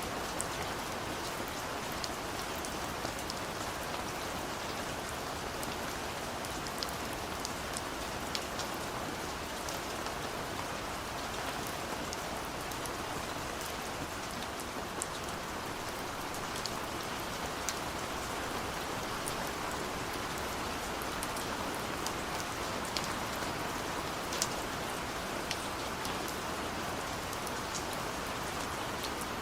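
Steady rain falling: a constant even hiss, with scattered sharp ticks of single drops striking close by.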